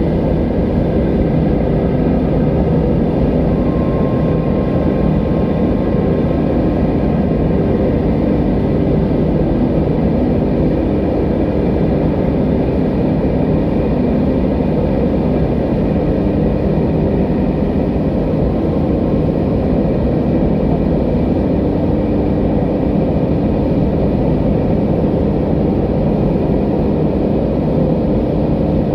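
Wind blowing steadily as a deep, even rush, with no gusts or pauses and faint steady whistling tones above it.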